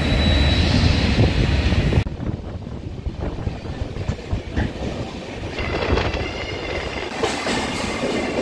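Deccan Express train running on the rails, heard from on board: wheels clattering over the track with a thin high wheel squeal. The sound drops abruptly about two seconds in, then builds again with more squealing near the end.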